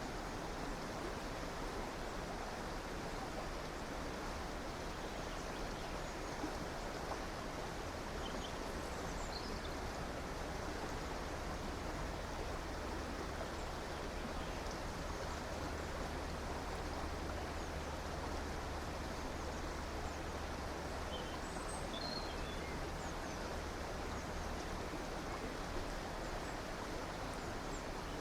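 A river flowing, a steady even rush of water, with a few faint bird chirps, once about a third of the way in and again about three quarters of the way through.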